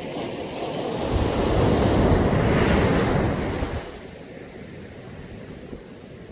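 Caribbean sea surf on a beach: a wave swells in about a second in, breaks and washes loudly for a couple of seconds, then falls back to a quieter wash.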